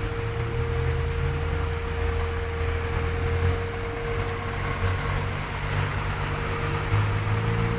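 Rain falling steadily, with a low rumble that swells and fades underneath and a faint steady hum.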